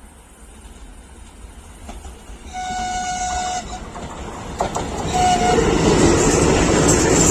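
VL10 electric locomotive sounding its horn, one blast of about a second followed a couple of seconds later by a short toot, while the rumble of the approaching passenger train grows louder.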